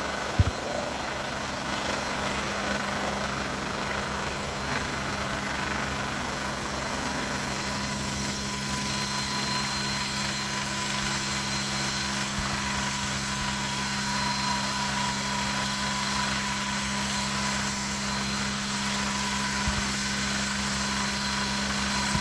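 Air ambulance helicopter running steadily: a constant low hum with a high turbine whine over it. A short knock sounds about half a second in.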